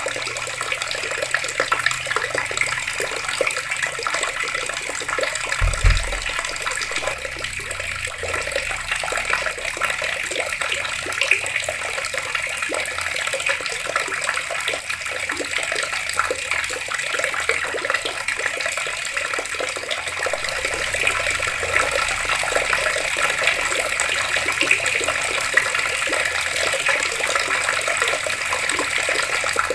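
Water running steadily from taps and splashing, an even rush of water. A single brief low thud comes about six seconds in.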